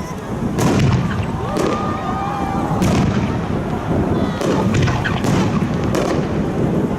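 Aerial fireworks bursting in quick succession: repeated sharp bangs over a continuous low rumble of shells going off.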